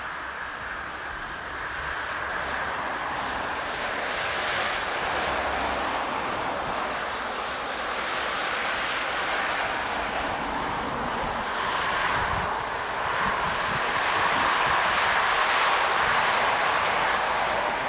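Airbus A320 jet engines passing on landing approach: a steady rushing jet noise that grows louder, peaks about three quarters of the way through, and starts to fade near the end.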